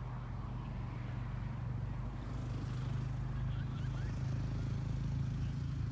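A steady low engine drone, growing slightly louder.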